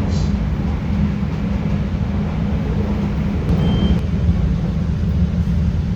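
CTA Red Line rapid-transit train, a steady low rumble heard from on board.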